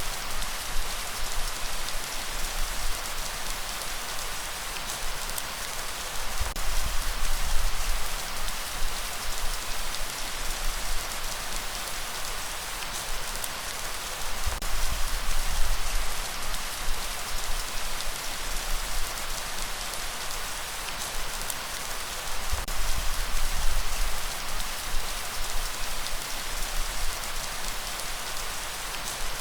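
Steady heavy rain hissing, with a low rumbling surge of ocean waves that swells and fades about every eight seconds.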